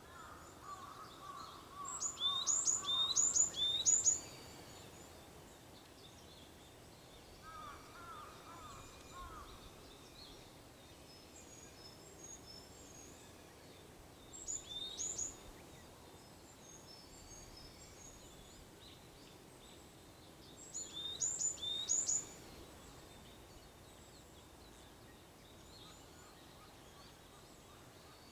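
Wild songbirds calling in the early morning: three loud bursts of quick, high, downward-sweeping notes, about two seconds in, near the middle and about three-quarters through, with softer, lower chirps twice in the first third and scattered faint calls between.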